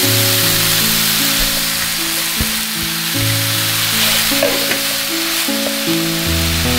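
Pork, onion, green pepper and cabbage sizzling as they are stir-fried in a frying pan, with a steady hiss throughout, over background music.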